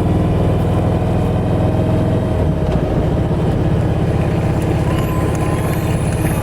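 Kawasaki Vulcan Voyager motorcycle engine running steadily under way, with a brief change in the engine note about two and a half seconds in.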